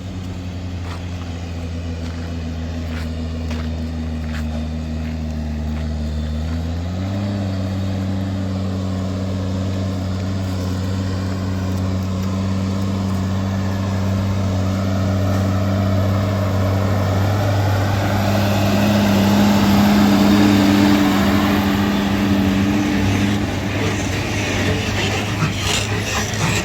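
Dezzi H180T 4x4 haulage tractor's diesel engine working under heavy load, hauling a fully laden six-trailer land train uphill. Its steady engine note steps up in pitch about seven seconds in, then grows louder to its loudest around twenty seconds in before easing off.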